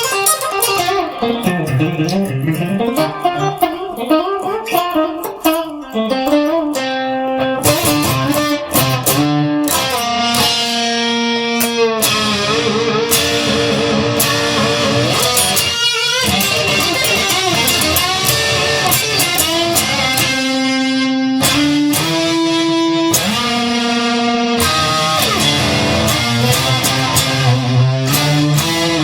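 Electric guitar playing an instrumental rock passage with sustained and bent notes, over bass guitar.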